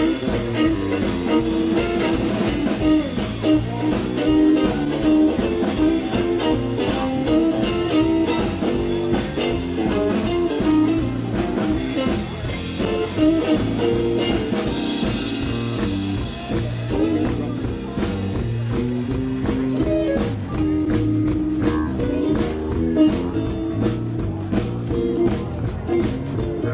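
Live blues-rock band playing an instrumental break, with electric guitar over bass and drum kit.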